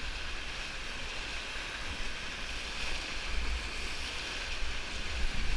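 Whitewater river rushing steadily around a raft, with wind buffeting the microphone in low rumbles.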